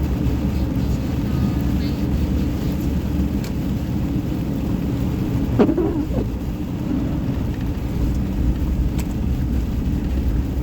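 Steady road and engine noise heard inside a moving car's cabin on snowy roads. A brief short pitched sound comes a little past halfway.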